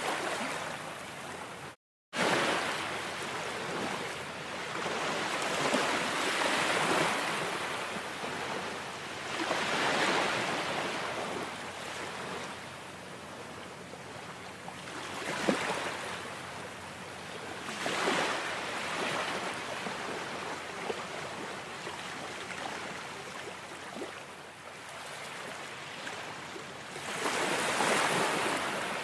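Ocean waves washing onto a shore, a steady hiss that swells and fades as each wave breaks, every few seconds. The sound cuts out completely for a split second about two seconds in.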